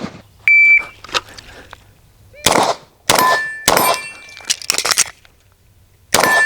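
A short electronic beep about half a second in, typical of a shot timer's start signal. It is followed from about two and a half seconds in by a string of sharp gunshots, with the ringing of hit steel targets after the later shots.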